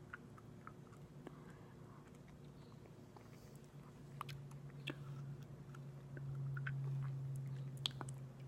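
Close-up mouth sounds of chewing aloe vera: scattered small, sticky wet clicks and smacks. Underneath runs a low steady hum that gets louder in the second half.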